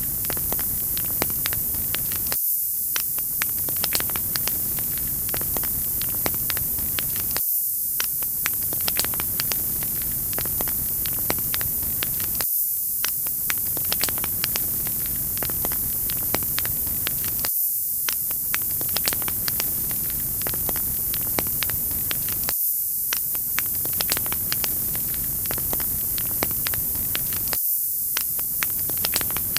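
Wood fire crackling: a steady hiss with many small pops and snaps. The lower part of the hiss drops away briefly about every five seconds.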